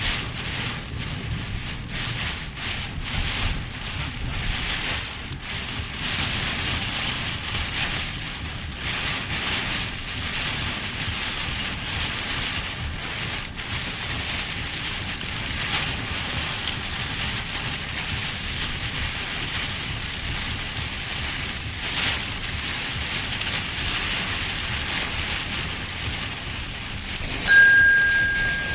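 Heavy rain pouring steadily, with gusts of wind. Near the end a sudden louder burst of sound comes with a short, steady high beep.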